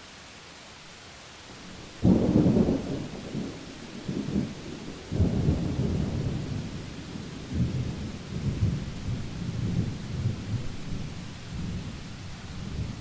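A thunderclap breaks suddenly about two seconds in over a steady hiss of rain. It goes into a long rolling thunder rumble that surges again about five seconds in and keeps going in uneven waves until it dies away near the end.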